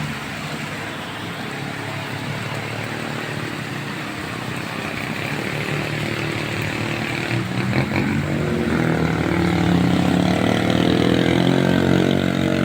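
Heavy rain hissing on the road, with a vehicle's engine running up the climb, growing louder from about halfway through as it approaches.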